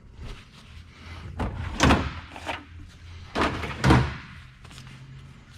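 Two loud thuds about two seconds apart, each trailing off in a short rattle, over a low steady hum.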